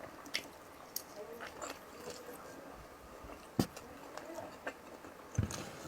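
A person chewing and eating ginataang tulingan close to the microphone: soft mouth and chewing sounds with scattered wet clicks and smacks, the sharpest about three and a half seconds in.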